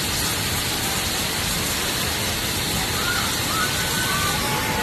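Steady, even rushing noise, with a few faint, brief whistle-like tones from about three seconds in.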